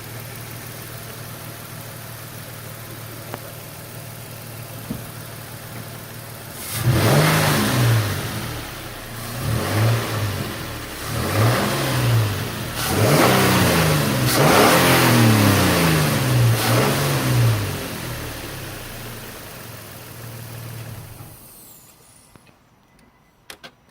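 2006 Nissan Xterra's V6 engine idling steadily, then revved up and down repeatedly from about seven seconds in, each rev rising and falling in pitch. It settles back to idle and drops away near the end.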